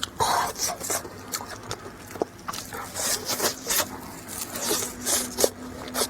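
Close-miked biting and chewing of a mochi egg tart, its pastry crust crackling in short, irregular crunches.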